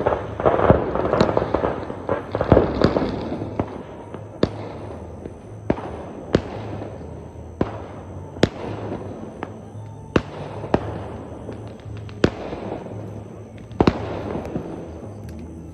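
Firecrackers going off: a dense crackling burst for the first few seconds, then single sharp bangs every second or two, over a steady low hum.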